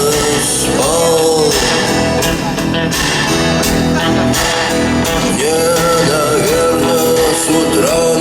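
Rock band playing live: a sung melody over guitars and a full band.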